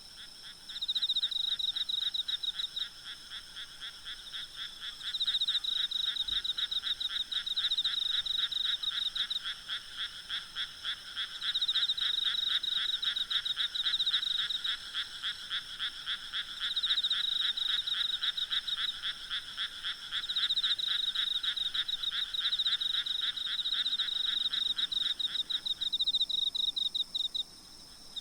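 A chorus of frogs calling in rapid pulsing trains, one voice in repeated bouts a few seconds long and a lower one pulsing steadily until it stops near the end, over a faint steady trilling of night insects.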